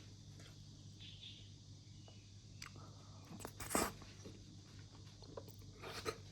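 Someone chewing crunchy food, with two louder crunches, one a little before the middle and one near the end, over a low steady hum.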